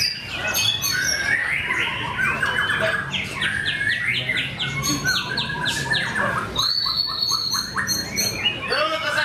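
White-rumped shamas singing in varied whistled phrases with fast runs of repeated notes, several birds overlapping.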